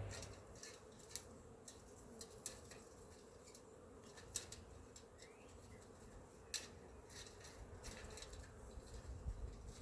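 Dry sticks and leaves crackling and snapping as they are handled, about a dozen sharp, irregular clicks, over a faint steady hum.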